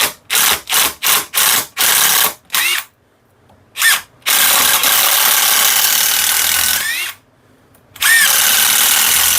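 Power drill boring out the epoxy that fixes the old handle in a hammer head's eye. It is run in about seven quick trigger bursts over the first three seconds, several spinning up with a rising whine, then after a short pause one brief burst and two longer steady runs of about three seconds and two seconds.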